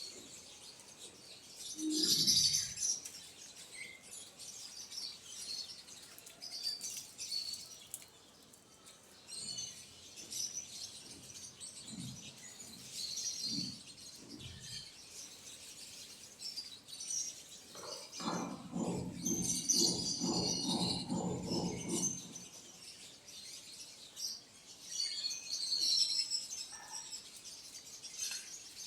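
Small birds chirping and calling on and off, with short high chirps throughout. A lower, pulsing sound runs for about four seconds a little past the middle.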